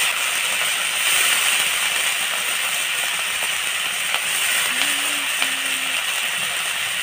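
Wet greens sizzling and steaming in a kadhai over a wood fire: a steady hiss with a few faint crackles.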